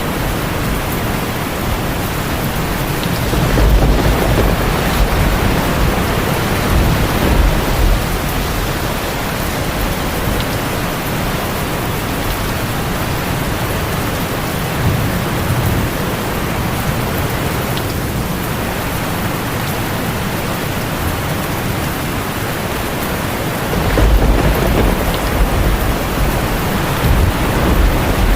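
Heavy rain drumming steadily on a tin roof, with low rolls of thunder swelling a few seconds in and again near the end.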